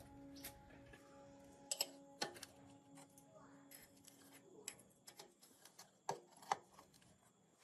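Scattered light clicks and taps from hand work on engine parts, irregular and a few seconds apart, with faint background music under them.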